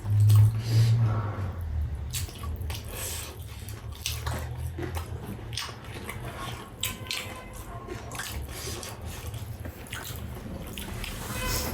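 Close-up eating sounds: chewing with a scatter of small clicks and taps over a low hum that is loudest in the first second or two.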